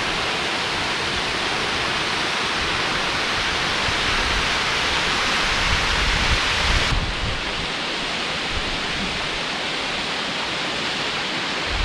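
Waterfall: a steady rush of falling water. The highest part of the hiss drops away about seven seconds in.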